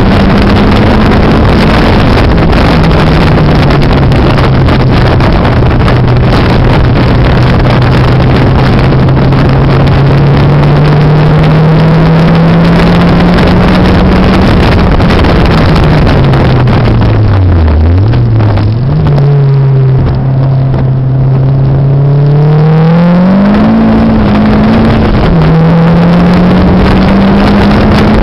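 Turbocharged Mazda MX-5 engine under hard acceleration on track, heard from inside the car, running at 8 psi boost, distorted and mixed with heavy wind noise on the microphone. The engine note drops with a gear change about a second in and climbs slowly, falls low under braking past the middle, then revs back up, with another gear change near the end.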